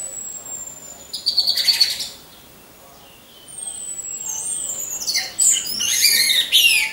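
Orange-headed thrush singing: a thin falling whistle, a quick burst of rapid buzzy notes, a short pause, then a longer, fast run of varied high notes and slurs.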